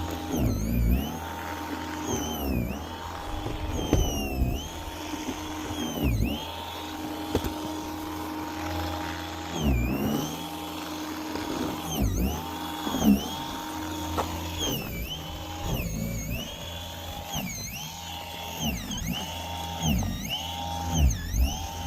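Electric snow shovel's motor running with a steady whine, its pitch sagging briefly and recovering every second or two as it bites into snow and takes load.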